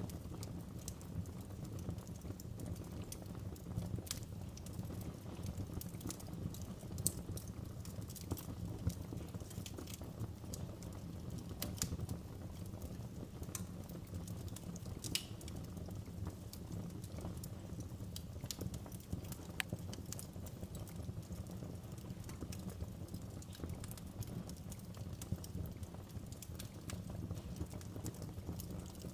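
Wood fire crackling in a fireplace: a steady low rumble of the flames with scattered sharp pops and snaps, several a second at times.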